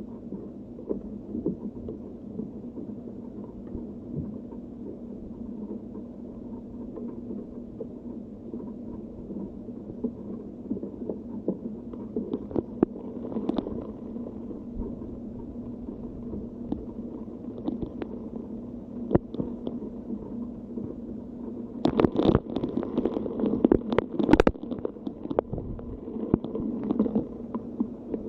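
Wind and rain rumbling on the microphone, with scattered crackles and a louder, rougher stretch of gusts about two-thirds of the way through.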